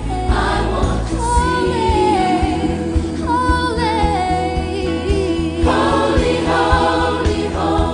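Gospel music: a choir singing over instrumental backing with a steady bass.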